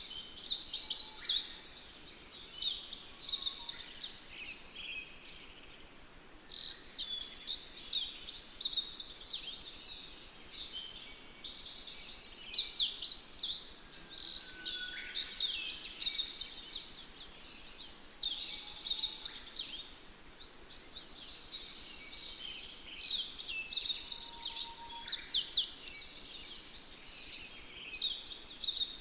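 Many small birds chirping and twittering together in overlapping bursts of quick high notes that swell and ease every few seconds, with an occasional lower whistled note.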